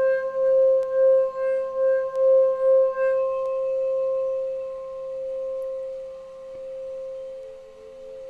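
A singing bowl ringing one sustained tone. It pulses in a steady wobble at first, then dies away slowly with gentle swells.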